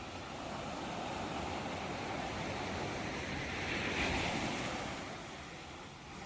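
Ocean waves breaking on a shore: the surf builds, one wave crashes about four seconds in, then washes out and fades.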